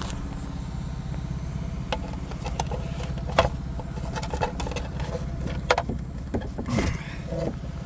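A motor or engine running steadily with a low, evenly pulsing rumble, with scattered knocks and clicks over it.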